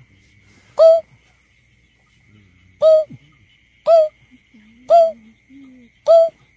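Greater painted-snipe hooting: five short, deep hoots, each swooping up sharply at its start, spaced about a second apart with one longer pause after the first. It is a recorded call played back as a lure for bird surveys.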